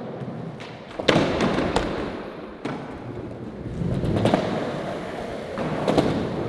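Skateboard wheels rolling on pavement, broken by several sharp knocks of boards popping and landing.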